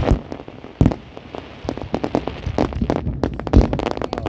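Fireworks going off: sharp bangs, with a heavy one about a second in and another near the end, and rapid crackling between.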